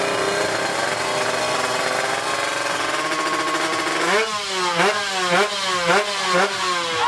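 Two-stroke single-cylinder engine of a Kawasaki Ninja drag bike bored out to 155 cc, running steadily at first, then revved in about five quick throttle blips a little over half a second apart, each jumping up in pitch and falling back.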